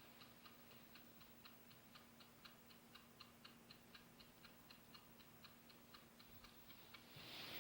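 Faint, fast, even ticking, about four ticks a second, over a faint steady hum.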